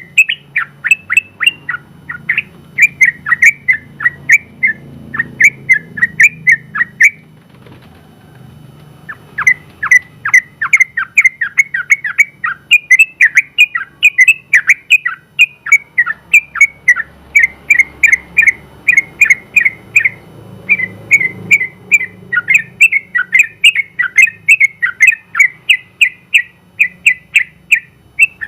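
Yellow-vented bulbul (trucukan) singing a long, fast run of short repeated chirping notes, about three or four a second. The song breaks off for about two seconds after about seven seconds, then resumes. A faint low hum lies underneath.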